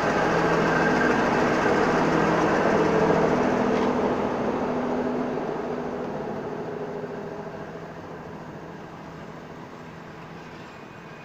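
Diesel locomotive engine running with a steady hum as it draws away, while passenger carriages roll past on the rails. The sound fades steadily from about four seconds in.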